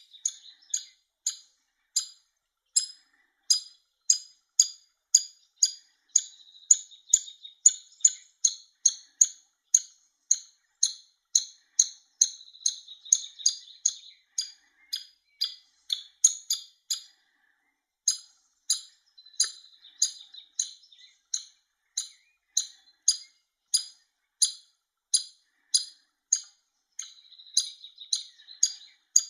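Woodpecker nestling begging: a long run of short, high chirping calls, about two to three a second, with buzzier, continuous begging stretches in the middle and near the end and a brief pause a little past halfway.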